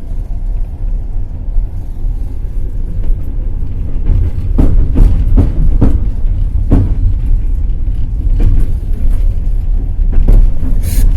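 Passenger train running at speed: a steady low rumble of the carriage, with its wheels clacking over rail joints in a run of knocks about halfway through and once more a little later.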